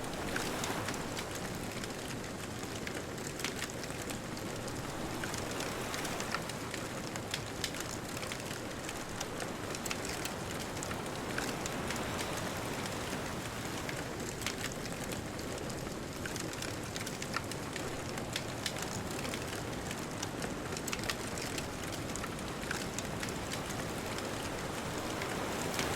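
Wood bonfire crackling with frequent small sharp pops, over a steady wash of distant ocean waves.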